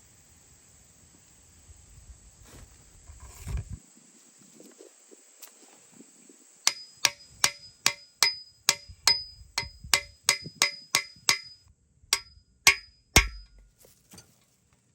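A hammer striking metal in a quick series of about eighteen sharp blows, roughly three a second, each with a short metallic ring, with a pause before the last few. Before the blows a few duller knocks sound, with crickets chirping faintly behind.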